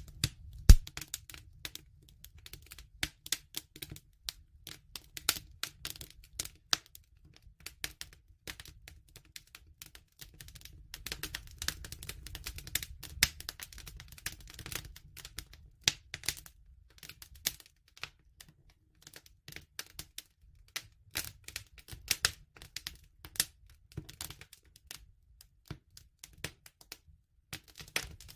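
Wood fire crackling and popping: irregular sharp snaps over a low steady rumble, with one loud pop under a second in.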